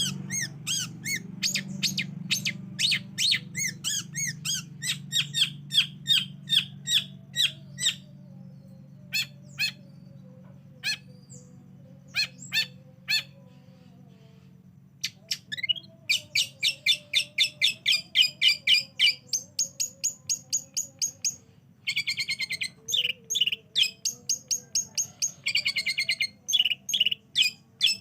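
Long-tailed shrike (cendet) singing in fast runs of repeated, sharp high notes. The bird thins to a few scattered single notes about a third of the way in. It then resumes with rapid chattering runs and a harsh buzzy trill near the end.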